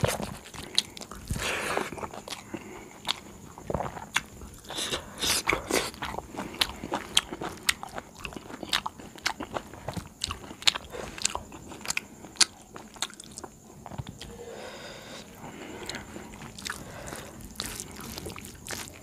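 Close-up eating sounds: a mouthful of rice chewed with many small irregular wet clicks, while fingers mix rice and curry on a steel plate.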